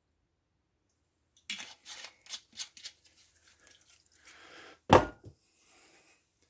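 Clicks and clatters of handling while fuelling a Stihl MS170 chainsaw with two-stroke premix, then one loud knock about five seconds in.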